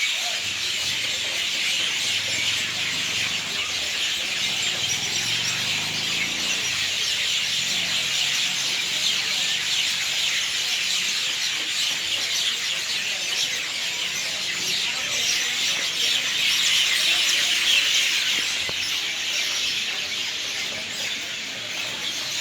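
Dense chorus of a large flock of birds gathered at an evening roost in coconut trees, many birds chattering and calling at once in a continuous high-pitched din that swells a little near the end.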